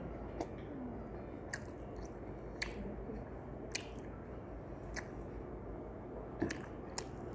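A man chewing food, with wet mouth-smacking clicks about once a second.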